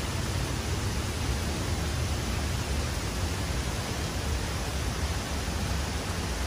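Steady rushing of a waterfall and river water, an even unbroken noise heaviest in the low end.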